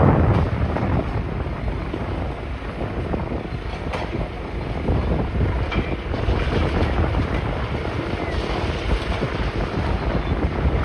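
Wind buffeting the microphone: a steady, uneven low rumble and rush.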